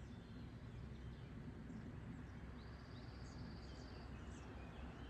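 Quiet outdoor ambience: a low, steady rumble with faint, scattered chirps of small birds and a short high trill about midway.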